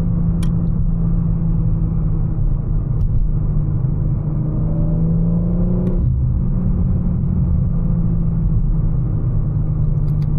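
2024 BMW M4 Competition's twin-turbo inline-six running under way, a loud steady drone with road rumble inside the cabin; a rising note builds about four seconds in and breaks off suddenly about six seconds in.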